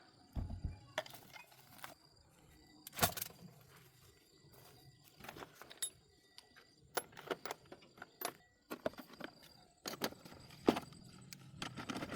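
Scattered clinks and knocks of small hard objects being handled, irregular, the loudest about three seconds in.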